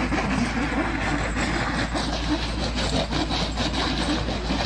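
Truck driving over rough ground: a steady low engine drone under dense, continuous rattling and clattering.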